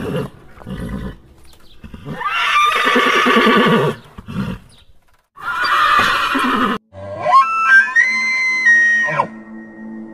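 Horses neighing: a short call at the start, then two long, loud whinnies about two and five seconds in. Near the end comes a held tone that steps up in pitch, over background music.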